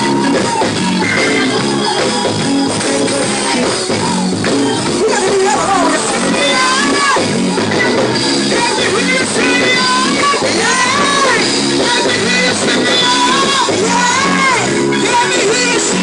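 Live church gospel music: a band playing a steady rhythmic song, with singing and shouts over it.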